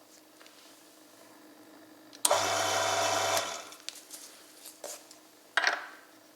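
A small electric motor on an oil-film test machine starts about two seconds in, runs steadily with a low hum for about a second, then winds down. A couple of short clinks follow near the end.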